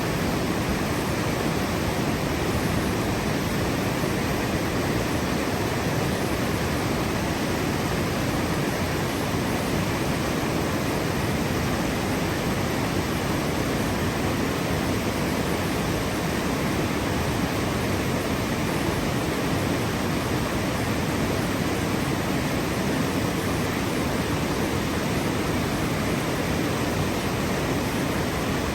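Steady rushing water, an even, unbroken roar with no change in level.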